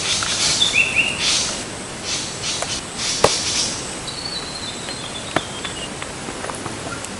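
Birds calling outdoors: a couple of short whistled notes near the start and a longer whistle that steps down in pitch around the middle. These sit over repeated bursts of high hissing rustle, with two sharp clicks.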